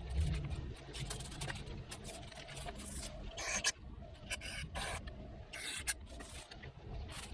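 Irregular scrubbing and scraping strokes on the oil-covered surfaces of a B16 engine as it is cleaned, over a low steady hum.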